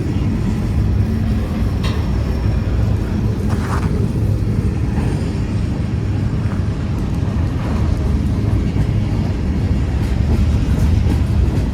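Freight train cars rolling slowly past: a steady low rumble of wheels on rail, with a few faint clicks. The train is slowing down.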